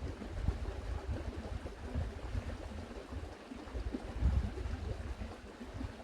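Wind buffeting the microphone outdoors: an uneven, gusting low rumble with a faint steady hiss above it.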